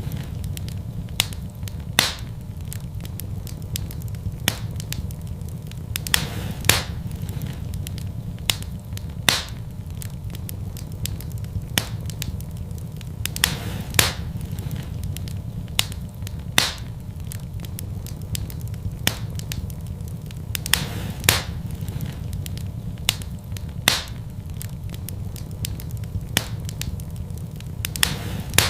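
Wood fire burning in a fireplace, crackling with irregular sharp pops, a louder snap every second or two, over a steady low rumble.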